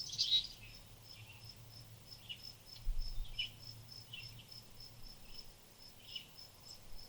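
Short bird chirps about once a second, the loudest right at the start, over a steady high insect chirping of about three pulses a second.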